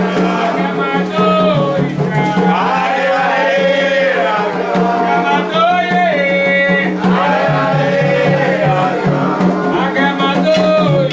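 Voices singing a Candomblé chant in phrases of a few seconds each, over a steady low hum, with light percussion.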